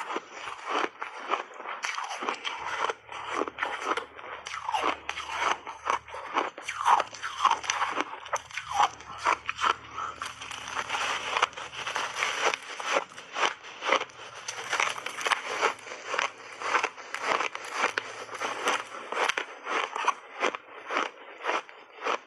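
Close-up crunching and chewing of refrozen block ice with frozen mixed berries in it, taken in big bites: a steady run of crisp crunches, a few each second.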